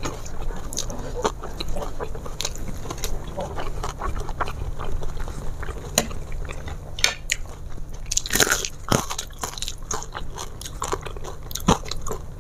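A person chewing and crunching mouthfuls of food, eaten by hand, with irregular short crunches and wet mouth clicks. The loudest are a pair of crunches about eight and nine seconds in and another near the end.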